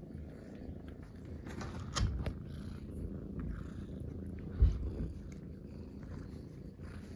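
Munchkin cats purring as a steady low rumble. Two sharper low thumps break in, one about two seconds in and a louder one at about four and a half seconds.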